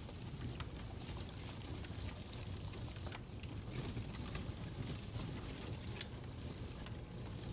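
Fireplace ambience: a steady low rumble and hiss with a few faint crackles.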